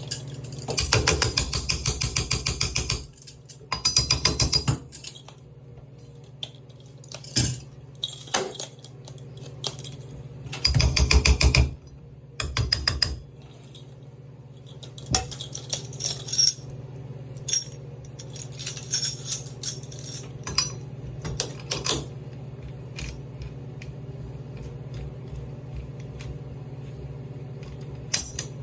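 Metal tools working on a stuck shower handle: several bursts of rapid clicking in the first half, then scattered metal taps and clinks, over a steady low hum.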